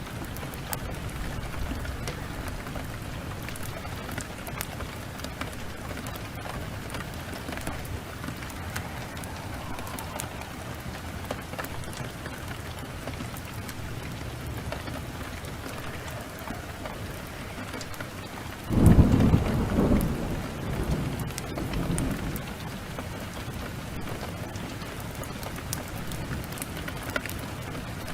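Heavy rain falling steadily, with scattered sharp crackles of a wood fire. About two-thirds of the way through, a sudden loud clap of thunder breaks in and rumbles away over a few seconds.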